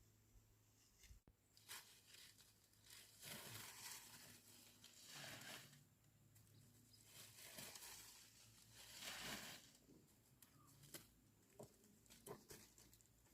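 Faint rustling and tearing noises in several drawn-out sweeps, with small snaps and clicks between them.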